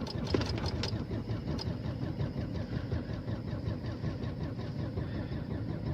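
A car engine cold-starting in deep frost: a run of quick, regular ticks dies away about a second in, and the engine keeps running at a steady idle.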